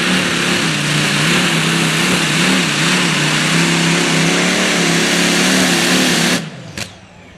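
Competition pulling tractor's engine running loud under load on a pull, its pitch holding steady with slight wavering. The engine sound drops away suddenly about six seconds in.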